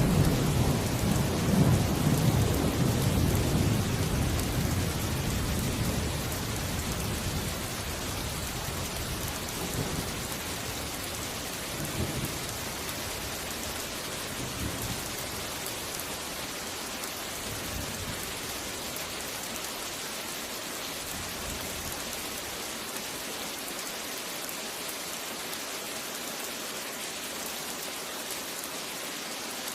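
Steady rain falling, with a rolling thunder rumble that fades away over the first several seconds and a few fainter rumbles about twelve and fifteen seconds in.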